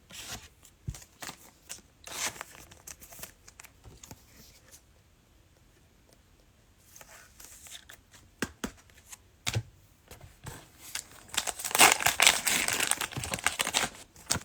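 Cellophane wrapper of a Panini Mosaic basketball card pack being torn open and crinkled, with scattered clicks and rustles of cards being handled. The tearing and crinkling is loudest over the last few seconds.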